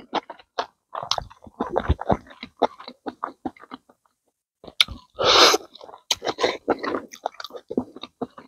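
Close-up chewing and lip smacking of cooked rabbit meat: a quick run of short clicks, with a brief lull about four seconds in and a louder breathy burst just after five seconds.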